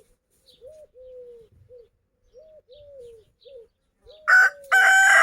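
Soft, short bird calls repeat over faint chirps. About four seconds in, a rooster breaks into a loud, long crow.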